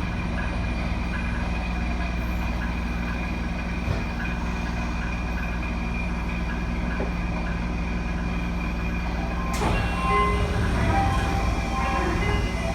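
Steady hum and rumble inside a Nagoya subway N1000-series car, with no rise or fall in pitch. About nine and a half seconds in, a sudden rush of noise breaks in, followed by scattered short tones.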